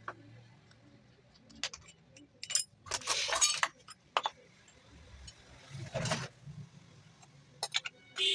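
Scattered metal clinks and knocks from handling the mixer jar's parts and tools, with a short clattering rattle about three seconds in and another about six seconds in.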